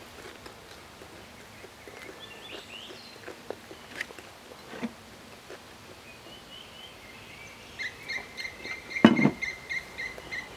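Quiet eating sounds: chewing crisp deep-fried pork and sipping a drink, with scattered small clicks. Near the end a bird calls with a quick run of repeated high notes, and a single thump comes about nine seconds in.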